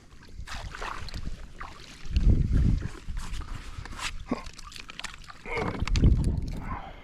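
Water splashing and sloshing at the side of a fishing kayak, with two strong gusts of wind rumbling on the microphone and scattered knocks and clicks of handling.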